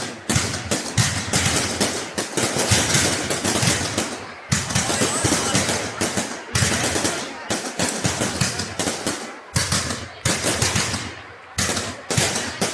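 Fireworks going off in rapid, overlapping volleys of bangs and crackle, with brief lulls every two or three seconds.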